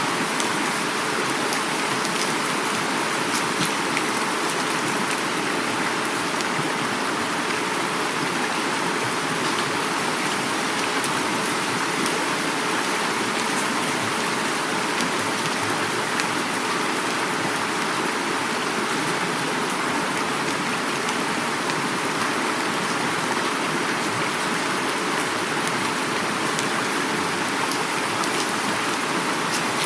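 Heavy rain falling together with a flowing river, a steady even rush of water with faint scattered drop ticks.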